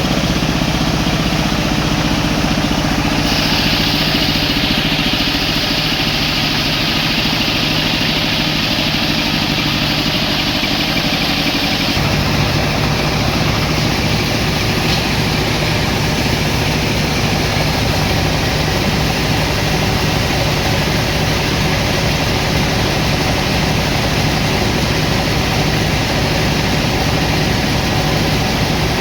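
Sawmill machinery running steadily with an engine-like hum. A higher hiss joins about three seconds in, and the low hum shifts pitch about twelve seconds in.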